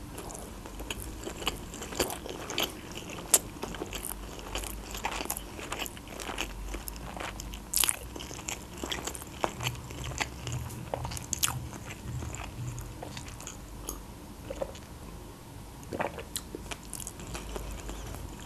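Close-miked chewing of a mouthful of sushi roll: a steady run of small, irregular wet clicks and smacks of the mouth.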